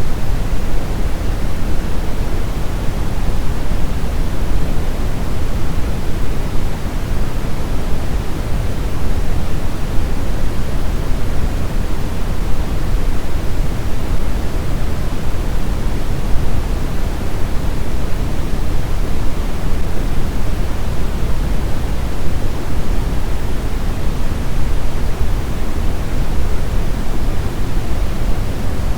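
Steady brown noise: an even, deep rushing hiss with its weight in the low end and little treble, unchanging throughout.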